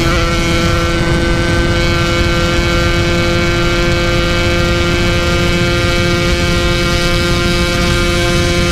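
Yamaha RX King two-stroke motorcycle engine, ported and bored out to 150 cc, held flat out at steady high revs in top gear near its top speed, with loud wind rush.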